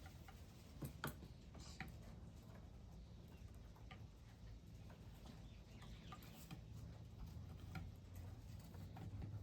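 Faint, scattered ticks and taps of birds feeding, over a low steady hum.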